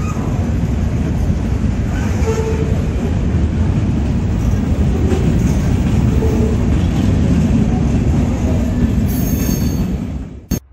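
Boxcars of a CSX freight train rolling past: a steady rumble of wheels on rail, with a few brief wheel squeals. It cuts off suddenly near the end.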